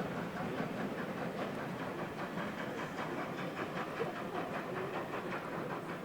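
A train running along the line: a steady rumble with a quick, regular clicking from the wheels.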